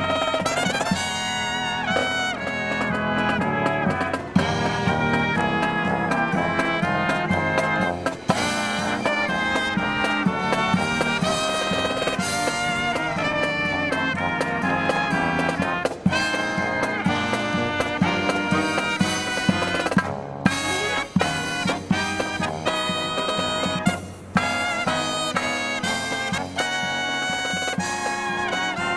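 Live brass marching band playing a Disney medley, with trumpets and trombones carrying the melody over drums.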